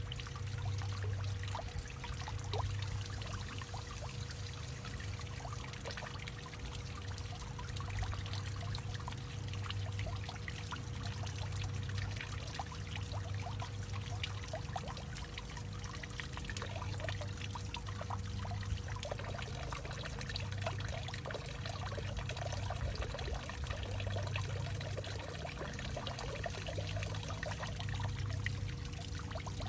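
Water steadily trickling and pouring in a hollowed-out tree, with many small splashes and a faint steady hum underneath.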